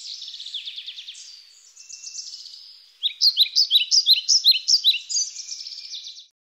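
Songbird singing a rapid series of high, sharp down-slurred notes. The song is softer and trilling for the first few seconds, loud again about three seconds in, and cuts off suddenly near the end.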